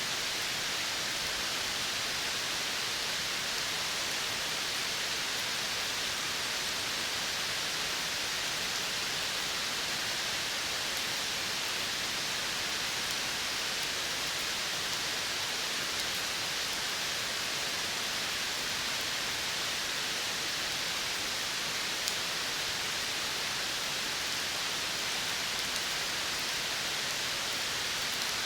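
Steady, even hiss of outdoor nature ambience in a tropical forest reserve, with no distinct calls or events apart from a faint tick about three-quarters of the way through.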